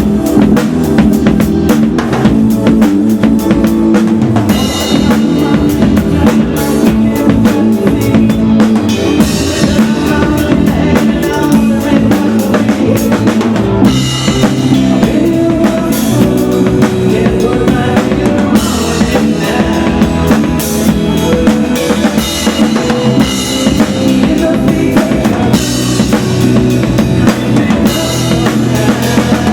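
A live band playing a rock song, with the drum kit prominent: steady drum hits over sustained bass and other instruments.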